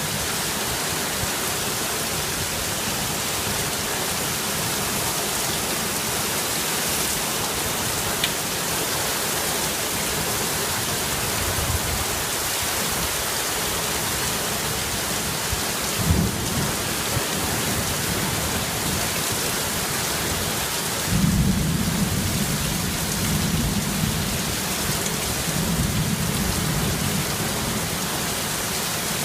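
Heavy rain falling steadily and pattering on surfaces, with thunder: a short low rumble about halfway through, then a longer rolling rumble, the loudest sound, in the last third.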